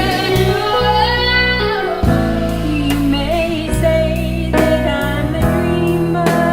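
Full-band pop arrangement with a sung melody line over sustained chords, bass and a steady drum beat with regular hits.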